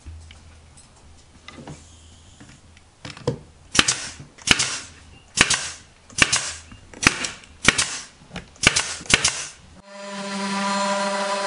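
A nail gun firing about nine times, a sharp shot every half-second to second, as it drives nails into the corners of a wooden picture frame. Music comes in near the end.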